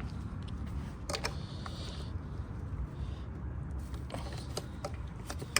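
Faint clicks and light knocks of hands working a brake bleeder adapter on the brake fluid reservoir, over a steady low hum.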